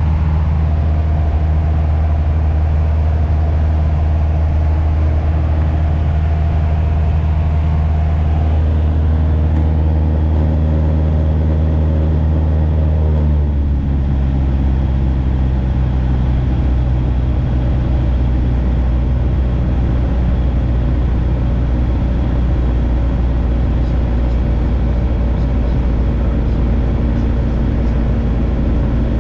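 Light aircraft's piston engine running steadily, its note stepping down slightly about thirteen seconds in.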